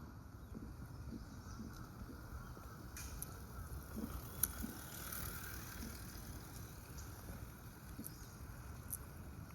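Outdoor background noise: a steady low rumble with a few faint, short clicks scattered through it.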